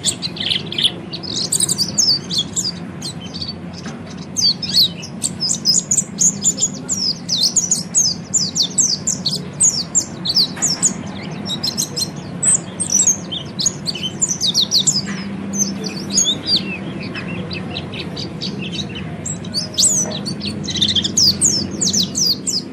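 Orange-headed thrush (peleci) singing a fast, continuous run of high, sharp chirping notes: the twittering 'ngeriwik' song.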